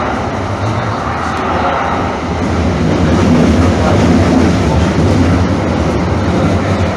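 Calgary CTrain light-rail train running with a steady rumble of wheels on track, a little louder about three seconds in.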